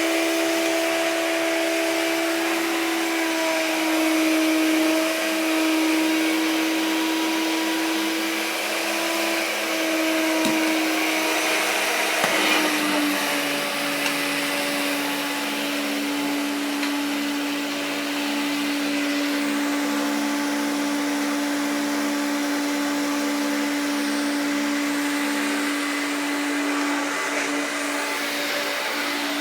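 1984 Hoover Turbopower 1 U2198 upright vacuum cleaner running with a steady motor hum. About twelve seconds in, its pitch drops slightly and stays lower, with a light knock just before.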